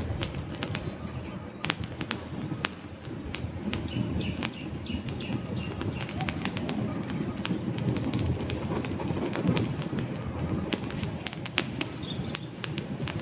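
Campfire burning: a low, steady rush of flames with frequent sharp crackles and pops from the burning logs.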